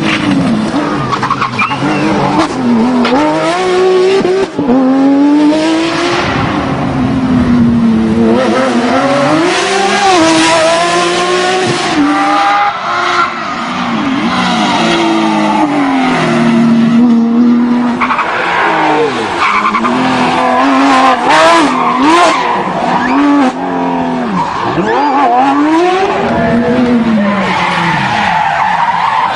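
Porsche 911 GT3 rally car's flat-six engine revving hard. Its pitch keeps climbing and dropping back through gear changes and lifts, over tyre noise.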